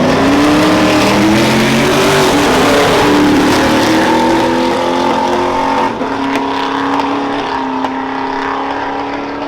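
A vehicle engine revving up and held at high revs: its pitch climbs over about the first three seconds, then stays steady, over a loud rush of noise.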